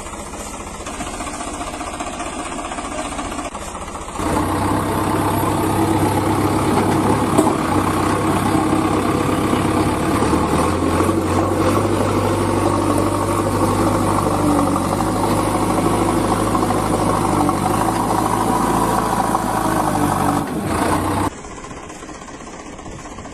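A steady engine sound, idling-like, that gets louder about four seconds in and cuts back abruptly near the end.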